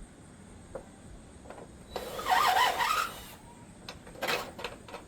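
Power drill running for about a second, its whine wavering in pitch as the trigger speed changes, then a second short burst a second later, with a few clicks between.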